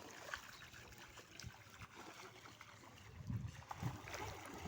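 Faint splashing and trickling water, with a few soft low thumps near the end.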